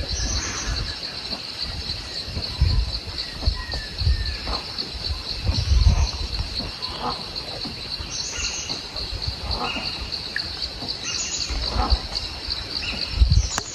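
Forest insects trilling in a steady, rapid pulsing chorus, with short bird chirps scattered through it. Low rumbles come and go underneath.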